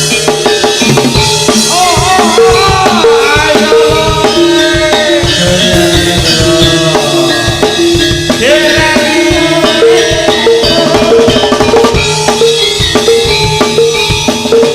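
Live Javanese jaranan (Turonggo) gamelan music: dense kendang and drum strokes under short, repeating metallophone-like notes, with a wavering melodic line over the top from about two seconds in until about twelve seconds.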